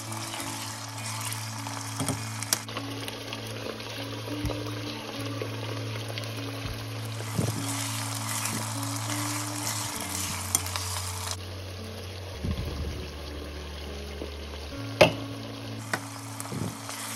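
Chicken pieces sizzling as they fry in hot oil in a nonstick pot, stirred with a silicone spatula, with a few sharp knocks of the spatula against the pot, the loudest about fifteen seconds in.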